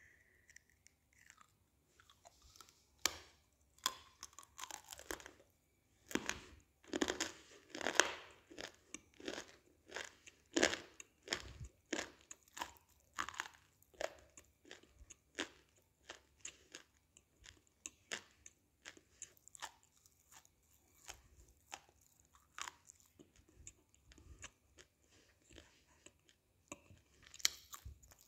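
A lump of roasted grey clay crunching as it is bitten and chewed, heard up close. Dry, sharp crunches come thick and loud in the first half, then settle into lighter, evenly spaced chewing.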